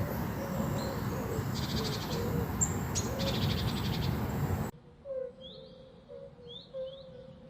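Outdoor ambience with a steady noise bed, short repeated animal calls and bursts of rapid high ticking; after an abrupt cut about two-thirds of the way in, birds chirping with short repeated calls over a quieter background.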